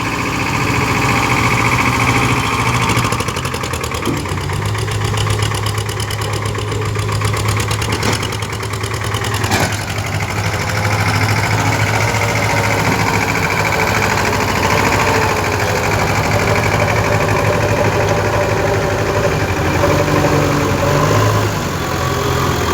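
Powertrac tractor's diesel engine running at a steady speed, with two brief sharp knocks near the middle.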